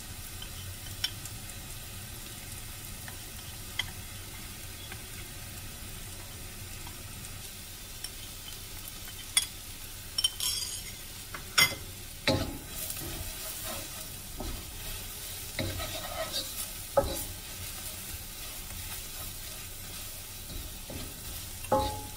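Sliced onions and green chilies sizzling in oil in a nonstick wok, with a few light ticks as spices are spooned in. From about nine seconds in, a wooden spoon scrapes and knocks against the wok as the mixture is stirred.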